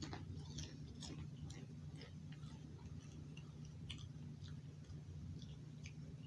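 Chewing a crunchy Pringles Wavy potato chip: scattered, irregular faint crackles over a steady low hum.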